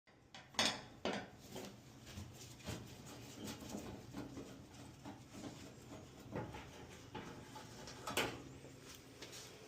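Scattered light clicks and knocks of hard objects being handled, over a steady low hum.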